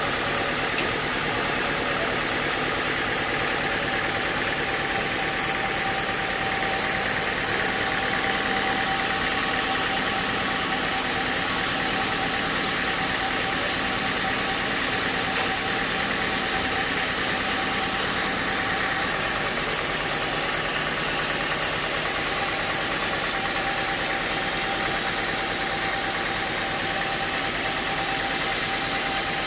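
Sawmill machinery running steadily: a constant mechanical drone and hiss with a thin, even whine.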